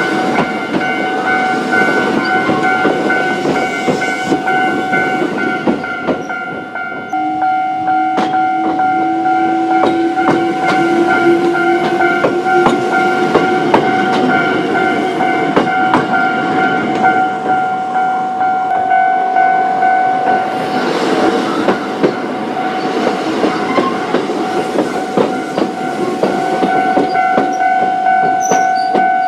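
Japanese level-crossing alarm ringing steadily while a Choshi Electric Railway train rolls over the crossing, wheels clacking on the rail joints over a continuous rumble. A low whine rises slowly in pitch partway through.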